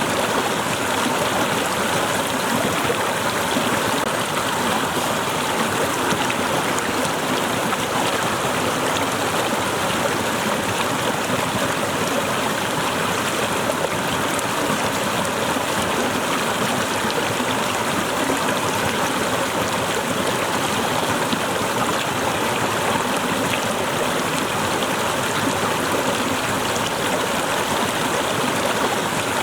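Small waterfall splashing and running steadily, its flow cascading down among winter icicles, with an even, unchanging rush of water.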